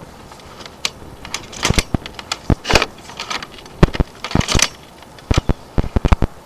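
A series of irregular sharp clicks and knocks, some in quick clusters, with a few short scraping rushes between them.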